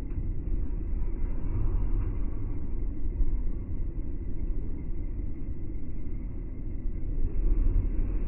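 Low, steady rumble of a train entering the station, heard slowed down, swelling slightly near the end.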